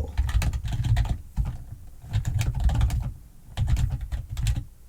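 Computer keyboard being typed on in quick bursts, each keystroke a click with a deep thud beneath it, with two short pauses between runs.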